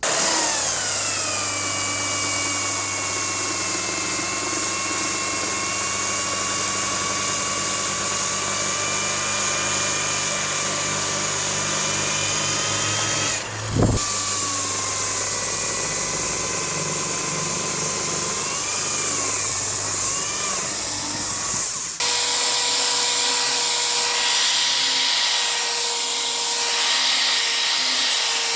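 Electric power-tool motors running loud and steady while working wood, the pitch settling just after starting and dipping and wavering briefly under load twice. About 22 seconds in it changes abruptly to a different steady-running tool with a higher-pitched hum.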